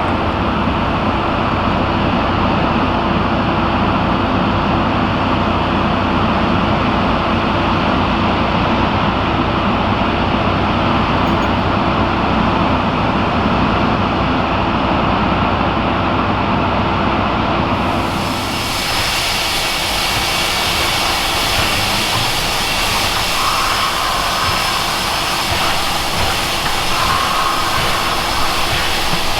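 Steam excursion train running with a steady rumbling roar. About eighteen seconds in, the sound changes suddenly to a brighter, steady hissing noise.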